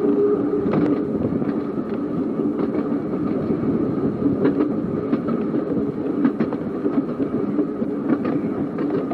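Narrow-gauge electric tram running along its track: a steady motor hum with irregular clicks and knocks from the rail joints.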